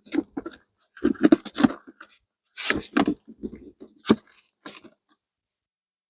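Irregular bursts of rustling and scraping from hands working the hive, several short clusters over the first five seconds, then quiet near the end.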